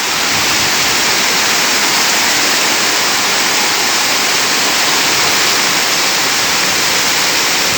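Heavy rain pouring down in a loud, steady hiss that swells just at the start.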